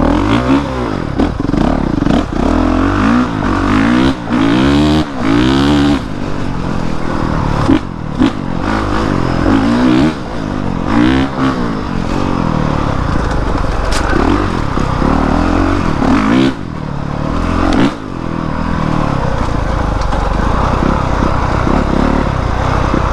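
Honda CRF450R's single-cylinder four-stroke engine being ridden off-road, revving up and falling back again and again through the first half, then running more steadily.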